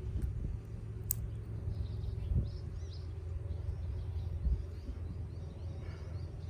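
Wind rumbling on the microphone outdoors, with faint small-bird chirps and a single sharp click about a second in.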